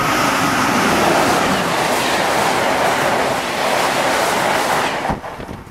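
Amtrak Northeast Regional electric train with Amfleet coaches passing a station platform at high speed: a loud, steady rush of wheels on rail and wind, dropping away abruptly about five seconds in.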